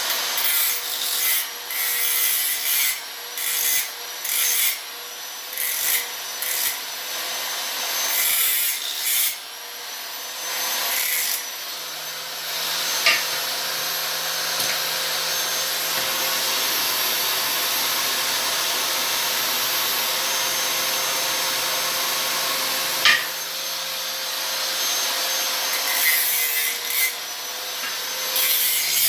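Hand-held grinder running with a steady motor whine, its wheel grinding steel. Short passes for the first dozen seconds, one long continuous grind through the middle, then short passes again near the end.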